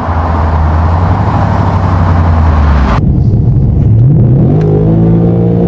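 Ford Mustang RTR's V8 engine running loud with a deep, steady rumble. After an abrupt change about three seconds in, it revs up about four seconds in and holds at the higher revs.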